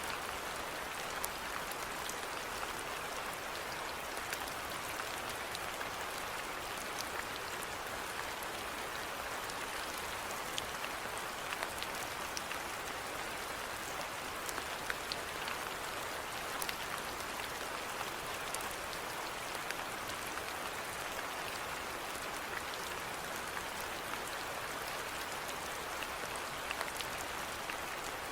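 Steady rainfall, an even hiss with scattered individual drops ticking throughout.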